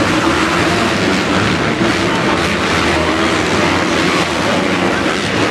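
Motocross bikes racing around the track, a loud, steady mass of engine noise.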